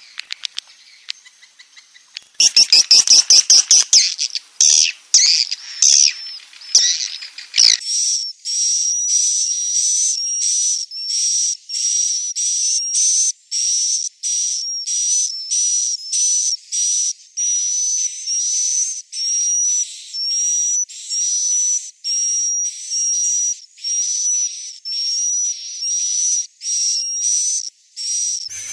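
Swiftlet roosting-lure sound (suara inap walet), swiftlet calls played back to draw the birds in to roost. About two seconds in comes a loud burst of rapid, crowded chattering calls. From about eight seconds in it turns to a regular run of high chirps, about two a second.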